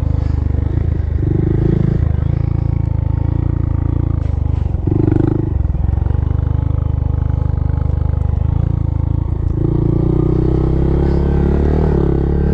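Honda Monkey's small single-cylinder engine running as the bike is ridden, with short rises in revs about a second and a half and five seconds in, then a longer climb in revs from about ten seconds in.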